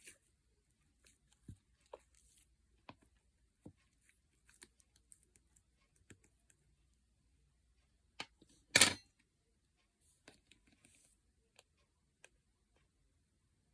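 Slime being handled: scattered soft sticky clicks and small pops, with one much louder, brief crackling burst about nine seconds in.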